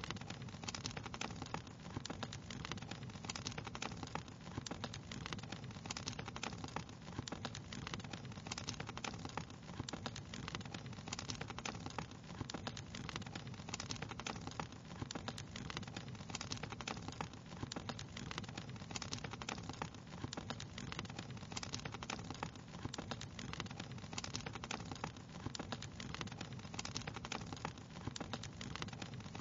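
Wood fire crackling steadily: a dense, irregular run of small pops and snaps over a low, even rumble of burning.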